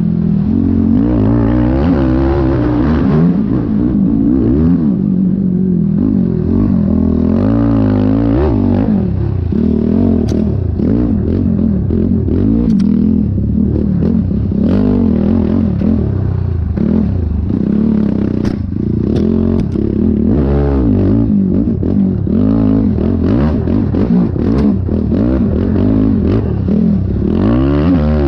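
Yamaha YFZ450R quad's single-cylinder four-stroke engine revving up and down continuously as it is ridden over rough, whooped-out ground, with scattered rattles and knocks.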